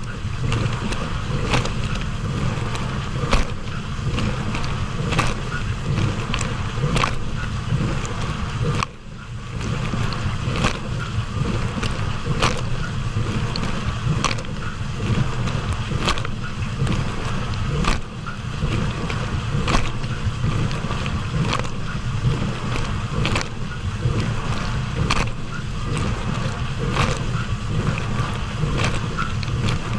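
Hotpoint dishwasher running its wash cycle: a steady pump-motor hum under spraying water, with a sharp splash or tick repeating about every two seconds. The sound dips briefly about nine seconds in.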